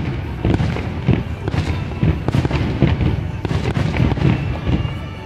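Fireworks display: aerial shells bursting in quick succession, about two or three loud booms a second, easing off near the end.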